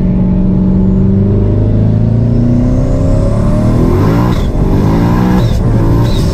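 Twin-turbo 426 Hemi V8 of a manual Dodge Challenger Hellcat under acceleration. The steady engine note climbs in revs, then drops back and climbs again twice near the end as gears are changed.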